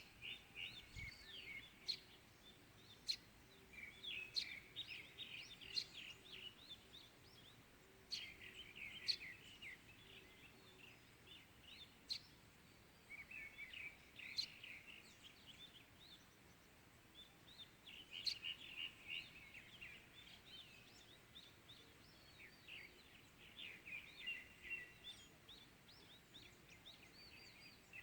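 Small birds singing faintly in repeated bouts of quick, high chirping notes, each bout a couple of seconds long with short pauses between, over a faint steady outdoor hiss.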